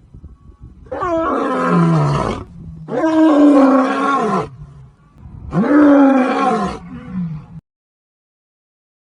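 Lion roaring: three long roars with shorter, lower grunts between them. The roaring stops a little past two-thirds of the way in.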